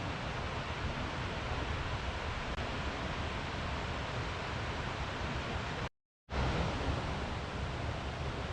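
Steady rushing outdoor noise with no distinct events, cut off by a brief silent gap about six seconds in.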